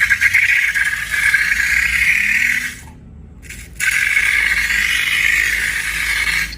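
Slime-making sounds: a steady, crackly rattling scrape, in two stretches broken by a short quiet gap about three seconds in.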